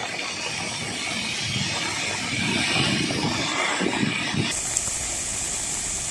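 Heavy rain hissing, with vehicles passing on a wet road in the first part. About four and a half seconds in, the sound changes abruptly to a steadier, brighter rain hiss.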